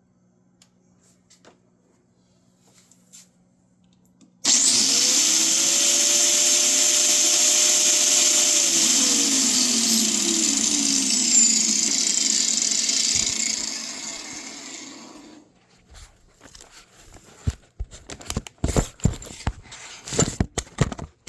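A small electric motor starts suddenly with a loud rushing hiss. Its whine climbs to speed at once, holds steady, then sinks in pitch from about halfway through as the hiss trails off and stops. After that come scattered light clicks and knocks of tools and parts being handled.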